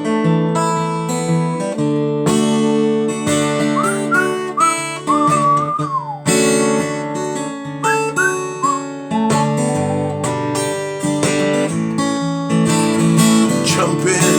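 Acoustic guitar strumming chords in an instrumental break of a song, with a few short sliding higher notes over the chords about four to six seconds in and again near eight seconds.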